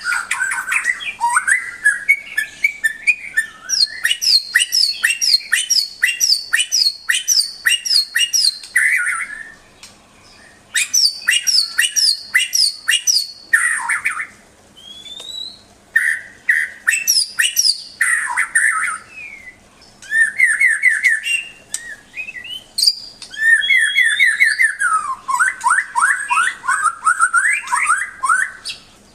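White-rumped shama (murai batu) singing: fast runs of repeated sharp chirps and trills mixed with rising and falling whistled notes, broken by short pauses.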